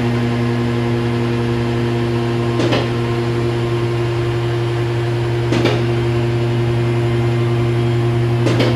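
A steady machine hum with a brief rushing sound about every three seconds.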